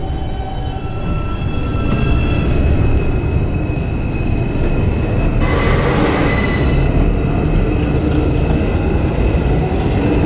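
Bombardier R142 subway train pulling out of the station: its electric traction motors whine in several tones that climb as it picks up speed, over steady wheel rumble on the rails. About six seconds in there is a short, loud burst of high, hissing wheel noise.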